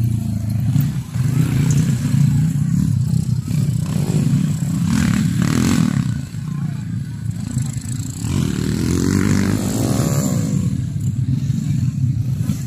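Motocross dirt bike engines running continuously, with voices over them.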